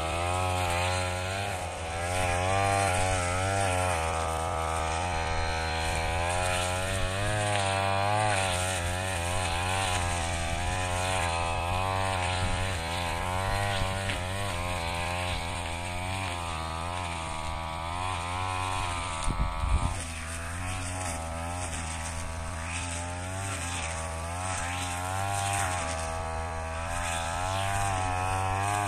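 Brush cutter engine running under load, its pitch wavering up and down as the blade cuts through rice straw. A brief low thump about two-thirds of the way through.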